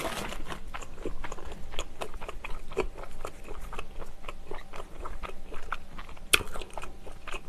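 A person chewing and biting into a sausage onion bread roll, close-miked: a continuous run of small wet mouth clicks and soft crackles. One sharper click comes about six seconds in.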